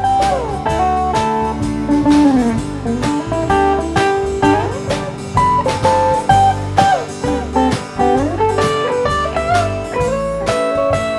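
Live band playing an instrumental break: a lead guitar solo with bending, sliding notes over steady drums and bass.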